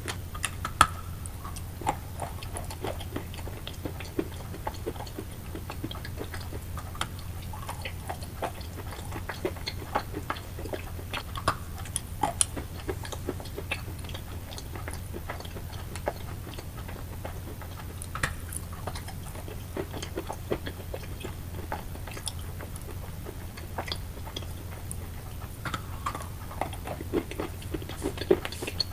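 Wet chalk being chewed close to the microphone: irregular soft crunches and crackles, with now and then a sharper bite. A steady low hum runs beneath.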